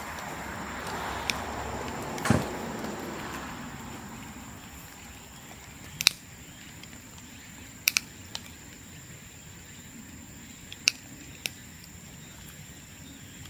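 Bamboo burning on an open bonfire: sharp pops and cracks every second or two, the loudest about two seconds in, over a rushing noise that fades after the first few seconds.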